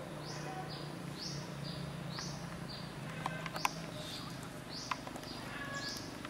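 A bird calling over and over, a high two-part note repeated about once a second, with a few sharp clicks near the middle.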